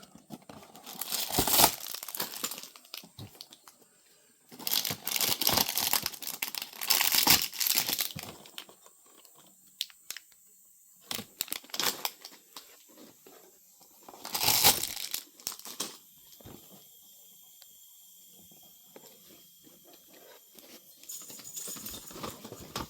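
Plastic packaging crinkling and tearing, in several loud spells with quieter gaps, as small bags of Lego pieces are handled and ripped open.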